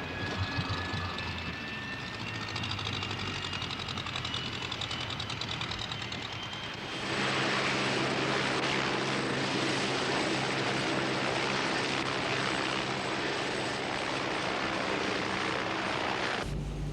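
Helicopter engine and rotor noise, with a slowly rising turbine whine. About seven seconds in it turns suddenly louder and steadier, then changes abruptly to a deeper hum near the end.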